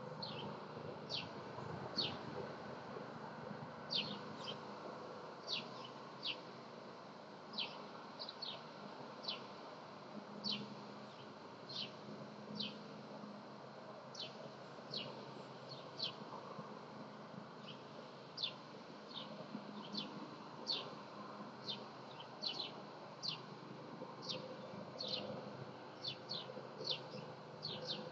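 A bird chirping over and over outdoors: short, high chirps that slide downward, often in pairs, about one or two a second, over a steady low background noise.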